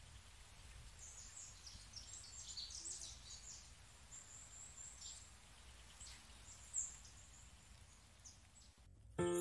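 Small birds chirping in short, high calls over a faint low outdoor rumble. Music starts suddenly near the end.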